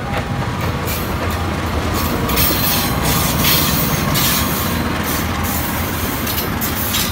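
A train hauled by KAI CC 206 diesel-electric locomotives passing close by: a steady heavy rumble of engines and wheels, with irregular sharp clatter of wheels on the rails.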